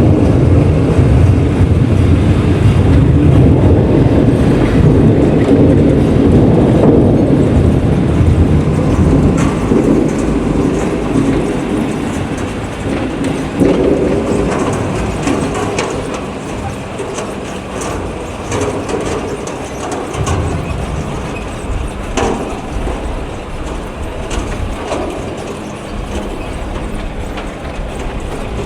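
Cast-iron wheels of a rice-paddy tractor clattering and clanking as it drives, a dense metallic rattle that grows gradually fainter through the second half.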